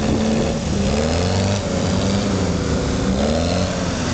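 Beach buggies' air-cooled VW flat-four engines running at low speed as they pull past, the engine note wavering up and down in pitch.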